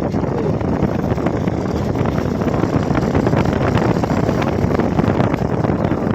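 Steady wind buffeting the microphone on a moving motorcycle, with road and engine noise underneath.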